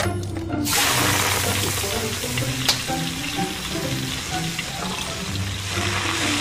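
Hot oil sizzling in a wok, starting about a second in as oil and then cut napa cabbage go in, and growing louder near the end. A sharp click sounds near the middle.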